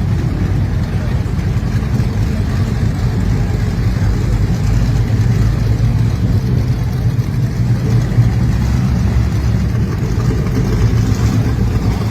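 A muscle car's engine running steadily, its sound centred low, with no clear revving.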